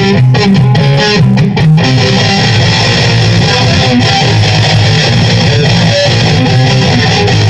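Guitar music: electric guitar over a bass line, moving through quick notes and then holding sustained notes from about two seconds in.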